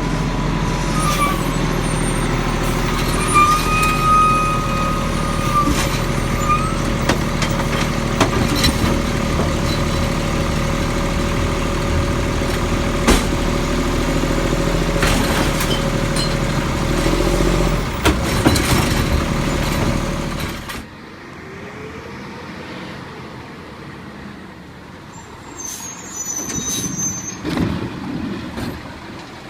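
Garbage truck running steadily, with a few knocks and clanks. About two-thirds of the way through the sound cuts suddenly to a quieter truck scene.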